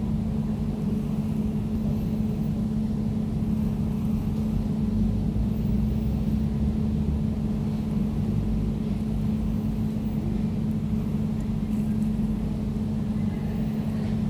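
Air conditioner running steadily: a low, even rumble with one constant humming tone over it.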